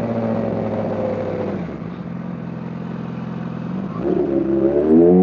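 Motorcycle engine heard from the bike while riding: the revs ease off and drop to a lower steady note, then climb again as it accelerates about four seconds in, getting louder.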